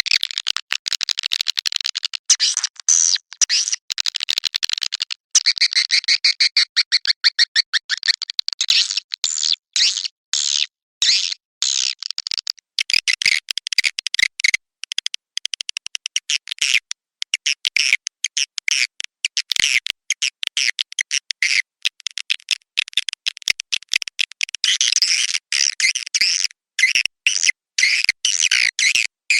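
Edible-nest swiftlets calling: dense, rapid, high chattering trills in runs broken by brief gaps, the kind of call recording played to lure swiftlets into a nesting house.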